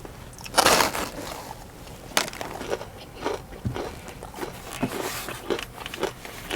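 A bite into a crispy fried chicken tender, crunching loudly about half a second in, followed by irregular crunchy chewing with small crackles.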